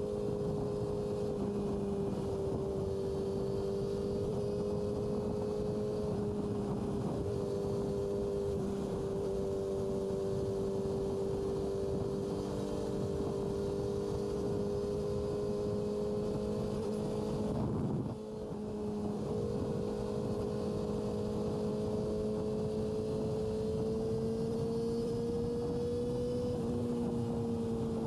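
Yamaha R6 sport bike's inline-four engine running at a steady cruise, its pitch holding nearly level and rising slightly near the end, over a steady rush of wind and road noise. The sound dips briefly about two-thirds of the way through.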